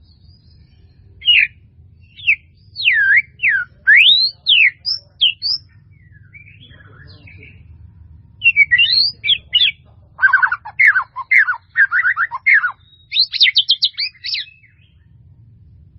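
White-rumped shama (murai batu) singing: loud, clear whistled phrases that sweep up and down, then after a short pause a faster run of rapid, varied notes. A steady low hum sits underneath.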